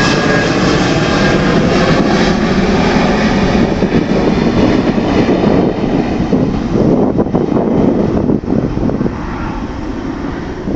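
Steady, loud rushing noise of an aircraft in flight, easing off somewhat in the last couple of seconds.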